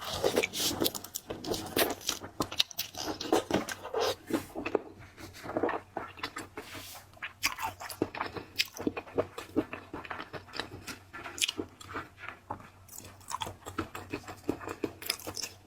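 Close-miked chewing and biting of seafood: a dense, irregular run of wet crunches and crackles.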